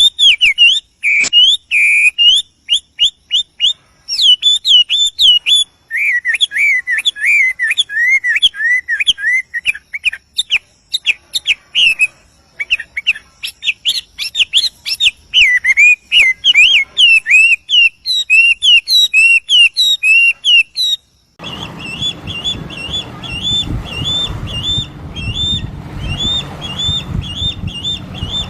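Birds chirping and calling in quick repeated notes that glide up and down. About two-thirds of the way through, the sound cuts abruptly to another recording: a single chirp repeated about three times a second over a steady background noise.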